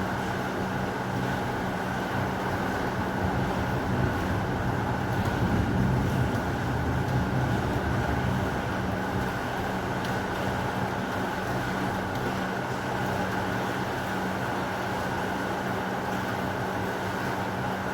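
Heavy rain falling steadily, with a low rumble of thunder building and fading about four to eight seconds in.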